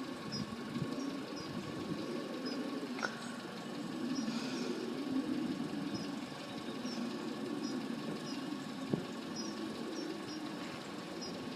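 Faint, steady low engine rumble, with a thin steady tone above it and short high chirps repeating about every half second.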